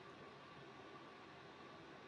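Near silence: a faint, steady hiss with a faint high hum, and no distinct washer motor, drum or water sound.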